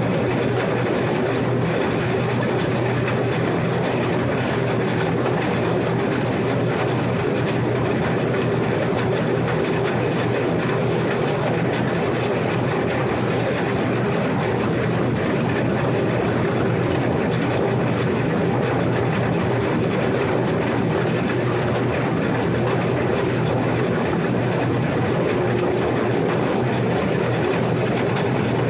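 Case IH 2388 combine running steadily under load while cutting wheat: its diesel engine and threshing machinery make a constant low hum with a steady hiss over it.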